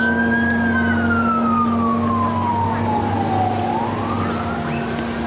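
A siren wailing, its pitch rising, sliding slowly down over about three seconds, then rising again, over a steady low hum.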